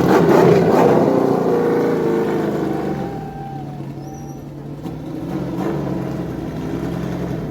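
Race truck engine running loud at the start and fading over the first few seconds, with its pitch sagging slightly, over a steady low engine drone.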